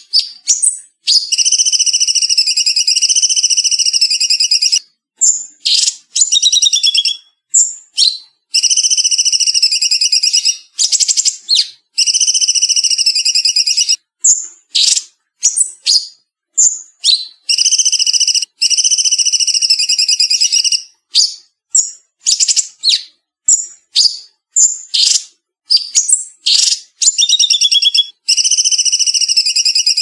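Cucak cungkok (a bulbul) singing fast and tight from the start: long rattling trills of two to four seconds each, alternating with short sharp chirps and whistled notes. The recording is cleaned, with nothing in the low range.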